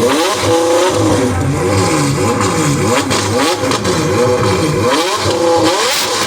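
Car engine being revved over and over, its pitch climbing and dropping several times in a row.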